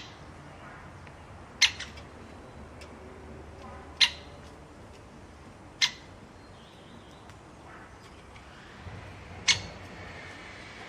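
A bird giving short, sharp single calls, four in all, about two seconds apart.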